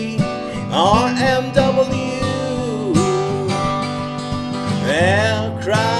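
Folk song played live on two acoustic guitars, with a singing voice coming in about a second in and again near the end.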